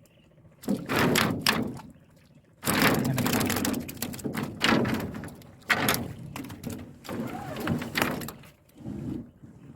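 Irregular splashes and thuds in a small fishing boat as fish traps are handled and fish are tipped out, several bursts of a second or so with short pauses between them.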